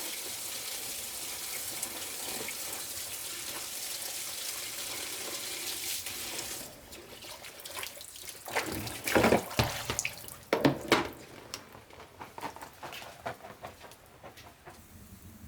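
Steady running water pouring into a basin, as from a tap or pipe, that stops abruptly about six and a half seconds in. Then a few sharp knocks and clatters, the loudest about two seconds later.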